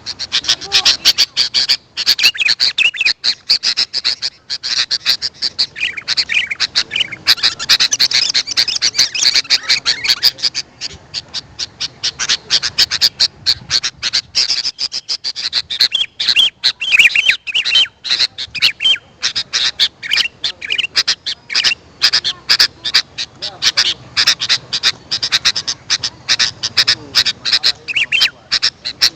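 Sooty-headed bulbuls (kutilang) calling in a dense, unbroken run of quick chirps and sharp notes, the kind of recording played to lure wild birds.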